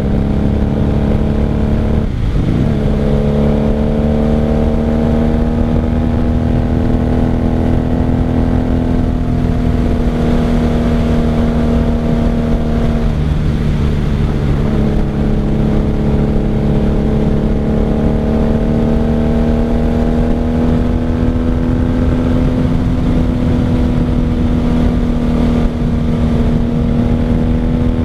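Motorcycle engine pulling under way, heard from the rider's seat, with a steady stack of engine tones. The pitch drops and recovers at a gear change about two seconds in, and again around the middle. After that the engine note climbs slowly as the bike accelerates.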